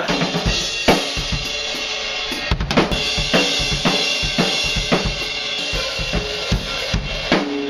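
Drum kit played in a heavy rock beat: bass drum and snare strokes under a constant wash of cymbals.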